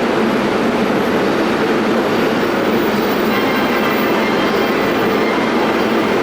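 Steady running noise of a JR Keiyō Line electric train, heard from inside the carriage. A faint high whine joins the rumble about three seconds in.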